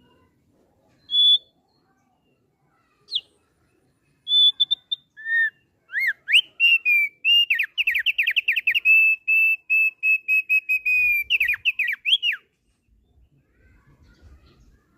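Thick-billed white-eye (opior paruh tebal) singing: a few single clear whistles, then from about six seconds a fast run of whistled notes that settles into a rapid, even trill and stops about twelve seconds in.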